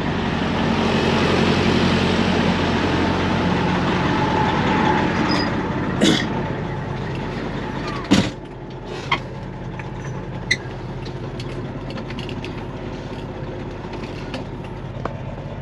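Semi-truck diesel engine running during slow, tight manoeuvring, with a heavy rushing noise over it for the first eight seconds. Sharp knocks come about six seconds and eight seconds in, the second the loudest, after which the engine runs quieter.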